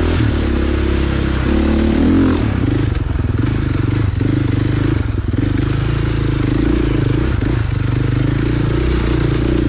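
Dirt bike engine running under way on a trail, its revs rising and falling with the throttle, with a brief rev-up about two seconds in.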